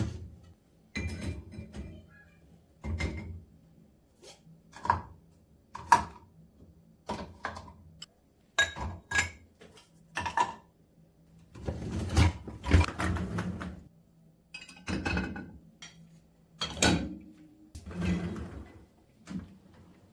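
Irregular knocks and clatter of kitchen things being handled, dishes and utensils picked up and set down, some with a brief ring.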